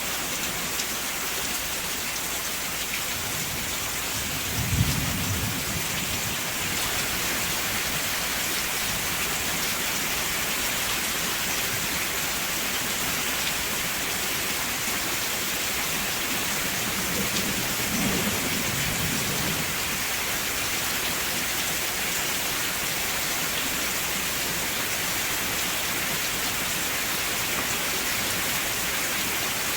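Steady rain falling, with a short, sharp clap of thunder about five seconds in and a softer low rumble of thunder a little past the middle.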